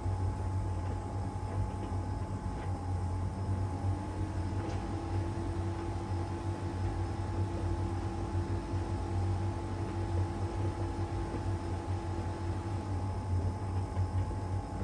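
LG heat pump tumble dryer running mid-cycle in its drying stage, drum turning: a steady low hum under a constant whine, with a second, lower whine that comes in about four seconds in and stops near the end.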